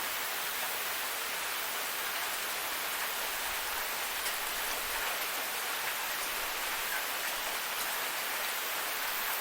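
Waterfall: a steady rush of falling water, an even hiss with a few faint droplet ticks.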